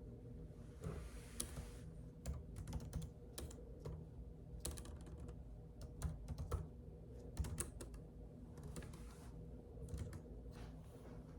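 Computer keyboard typing: irregular key clicks at an uneven pace, with a soft brushing noise twice, about a second in and again near nine seconds.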